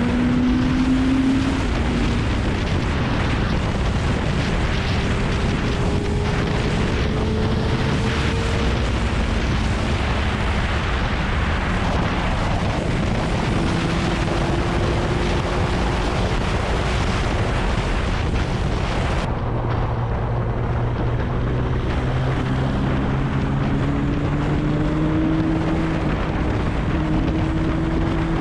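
Kawasaki Ninja ZX-9R's inline-four engine running at speed, its note rising slowly in long pulls and dropping back between them, under heavy wind rush on the microphone. The wind hiss eases somewhat about two-thirds of the way through.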